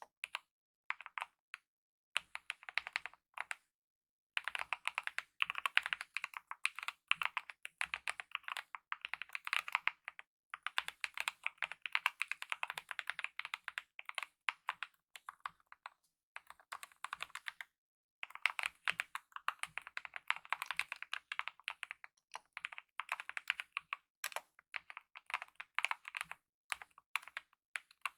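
Typing on a mechanical keyboard with lubed optical red linear switches and DSA-profile keycaps: fast runs of key clacks in bursts of several seconds, broken by short pauses.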